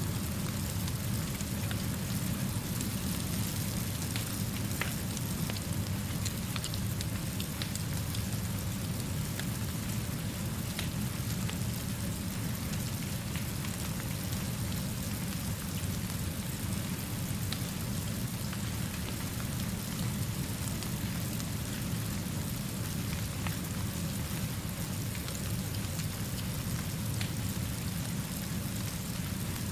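Steady rainfall, an even hiss with scattered sharp ticks throughout and a steady low rumble underneath.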